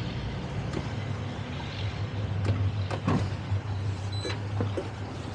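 Towboat engine running at low speed as the boat is manoeuvred, a steady low hum, with a few short knocks or clicks near the middle and later.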